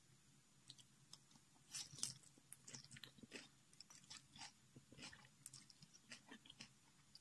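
Faint, close-up chewing of spicy instant noodles and vegetables: irregular soft wet clicks and smacks of the mouth, several a second.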